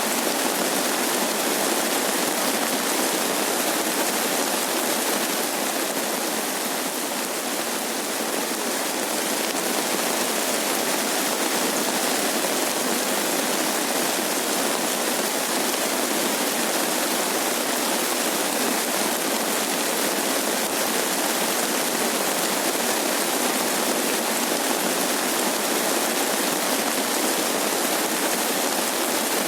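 Steady rain falling, an even hiss with no single drops, thunder or other sudden sounds standing out.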